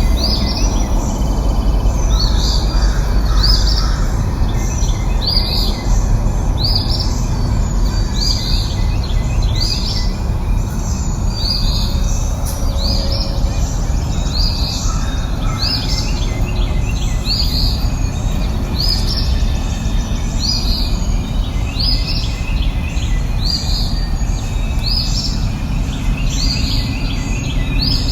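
A songbird repeating one short, high call about every second and a half, over a steady low rushing noise.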